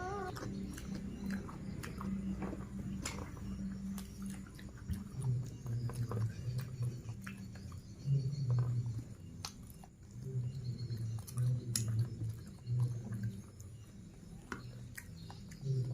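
A person chewing food close to the microphone, with irregular wet mouth sounds and scattered short clicks.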